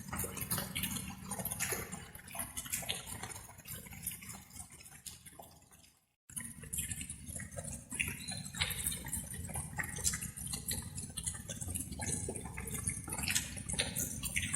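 Light rain: irregular water drops falling and dripping, over a steady low rumble. The sound cuts out completely for a moment about six seconds in, then resumes.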